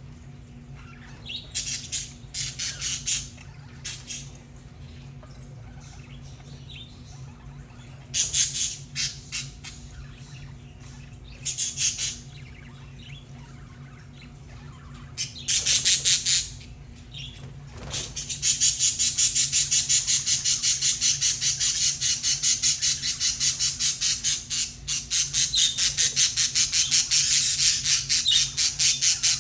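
Budgerigars squawking and chattering in short separate bursts, then, from a little past halfway, a continuous rapid run of harsh repeated calls.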